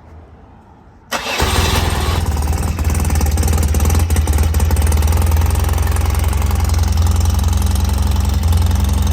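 1988 BMW R100GS air-cooled flat-twin boxer engine cold-started on half choke: about a second in it cranks briefly, catches almost at once and settles into a steady idle.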